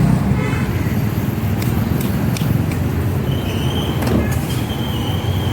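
Steady low rumble of road traffic, with a few light clicks about two seconds in and a thin high steady tone through the second half.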